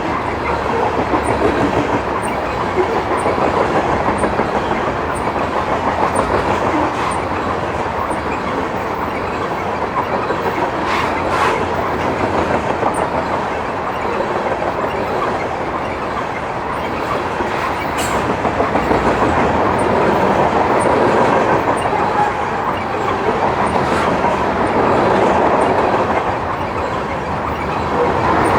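A Wisconsin Southern freight grain train's cars rolling past at close range, a continuous rumble with the wheels clicking over the rail joints in a steady rhythm.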